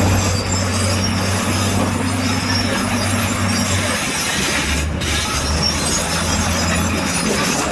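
Crawler bulldozer working: its diesel engine running under the clatter of steel tracks. The engine hum weakens about halfway through and picks up again a moment later.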